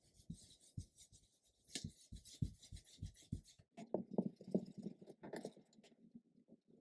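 Faint taps and rubbing on paper as ink is dabbed and swiped through a stencil onto a book page, busiest from about two to five and a half seconds in.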